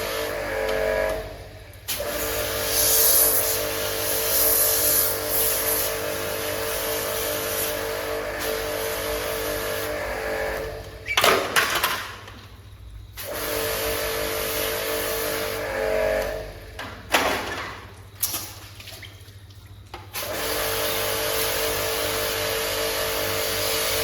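A motor-driven machine running with a steady hum and hiss. It cuts out briefly three times and starts again each time.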